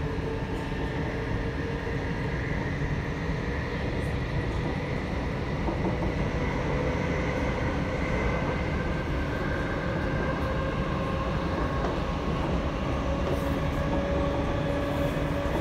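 Commuter train running at speed, heard from inside the carriage: a steady rumble of wheels on the track, with a faint whine that rises slowly in pitch.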